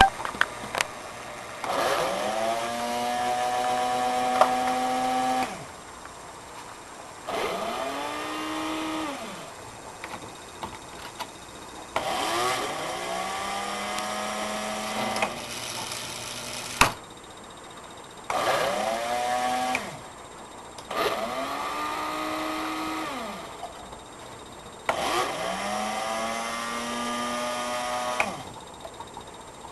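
A small electric motor starts six times, each time rising in pitch to a steady whine, running for one to three seconds, then winding down.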